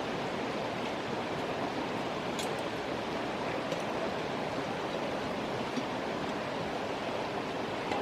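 Steady rushing of flowing stream or river water, with a few faint clicks.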